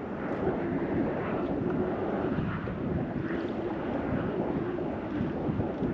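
Strong wind buffeting the microphone, a steady rushing noise with small gusts.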